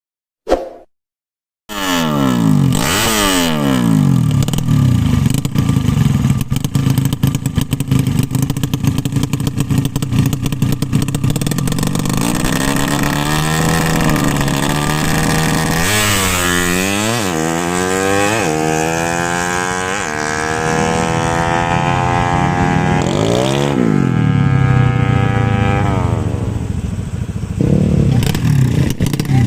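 Motorcycle engines running and revving hard, their pitch climbing and falling again several times. The engines start after a brief click and about two seconds of silence.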